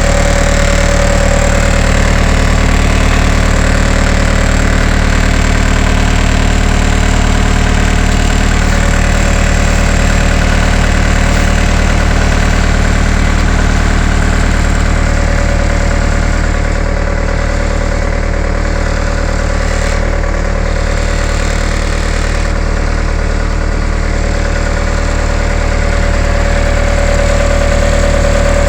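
An engine idling steadily, its note unchanging.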